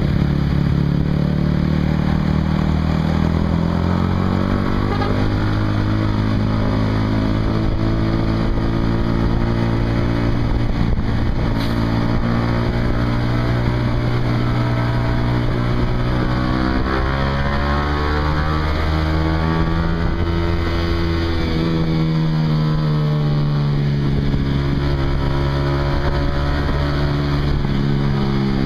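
Honda CBR150R's single-cylinder four-stroke engine through a Yoshimura exhaust, running under way. The pitch drops over the first few seconds, holds steady, then climbs and falls again past the middle and rises once more near the end as the throttle is worked.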